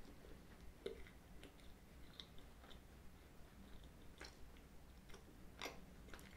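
Faint chewing of a mouthful of pastry tart with a brownie filling, with scattered small clicks from the mouth.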